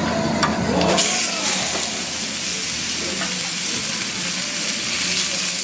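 Cube steak frying on a hot stall cooktop: a steady sizzling hiss that swells about a second in, with a couple of light metal clinks at the start.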